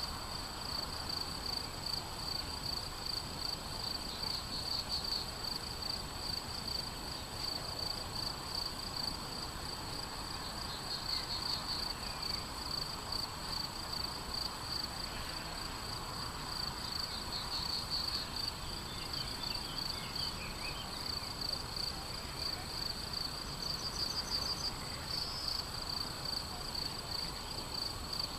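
Crickets chirring in a steady, fast-pulsing high trill, with a few short bird calls in the second half.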